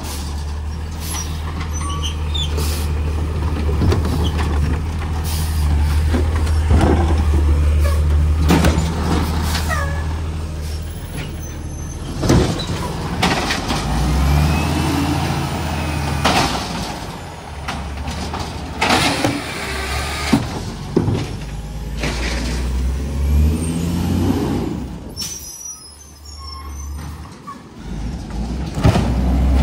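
Garbage truck's diesel engine running, its low drone rising and falling, with short air-brake hisses and clanks over it.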